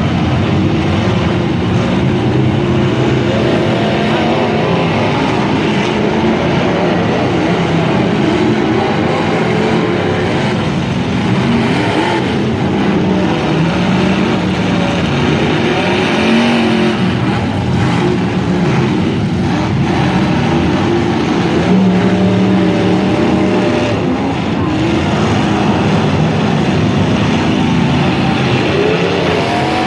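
Several truck engines running hard and revving up and down together, their pitch rising and falling throughout, with a few short bangs in between.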